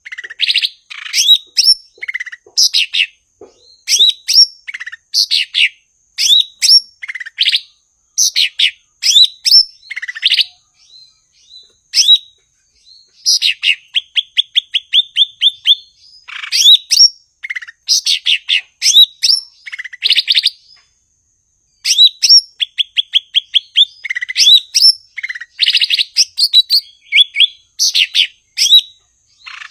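Cucak ijo (green leafbird) singing loudly in quick phrases of sharp chirps and whistles, twice breaking into a fast, even trill, with short pauses between phrases.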